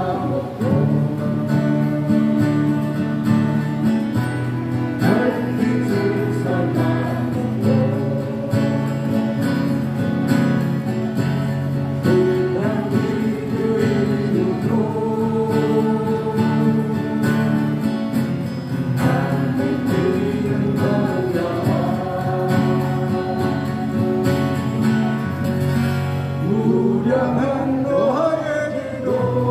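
Live acoustic guitars playing a song, with voices singing over them.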